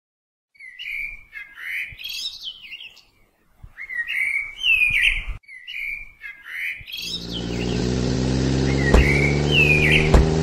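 A songbird singing short chirping phrases with quick rising and falling whistles, repeated several times. About seven seconds in, a vehicle engine fades in and runs steadily under the birdsong, with two sharp knocks near the end.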